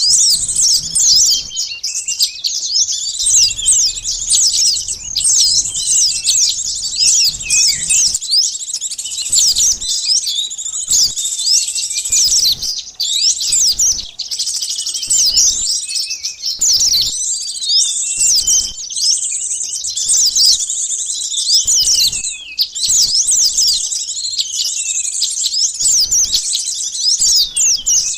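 Sunbirds twittering nonstop as a bird-lure call: dense, rapid, high-pitched chirps and short trills overlapping with barely a pause.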